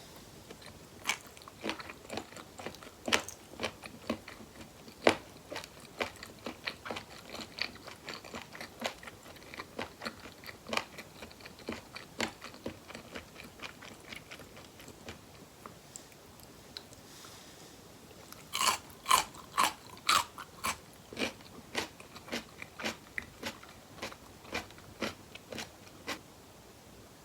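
Close-miked chewing of spicy boneless chicken feet, a steady run of wet, sticky clicks and small crunches, with a burst of louder crunchy bites about two-thirds of the way through.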